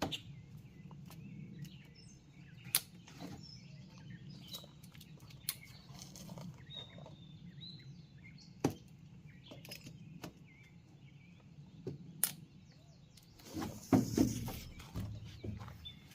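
Outdoor ambience: a low steady rumble with faint bird chirps, scattered sharp clicks and taps, and a louder rustling thump near the end.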